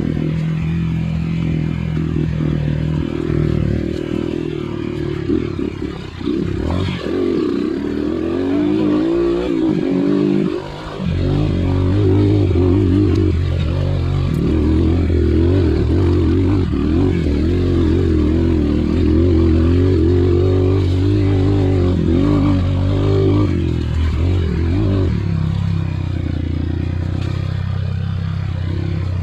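Dirt bike engine running under a rider on a trail, its pitch rising and falling with the throttle. It eases off briefly about eleven seconds in, then pulls harder.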